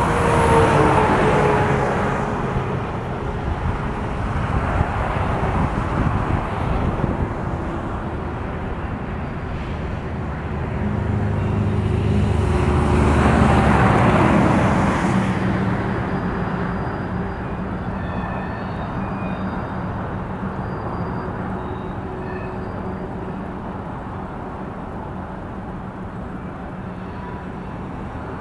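Steady low rumble of a long freight train in the canyon, with a faint steady drone underneath. Road traffic swells louder and fades twice, about a second in and around the middle.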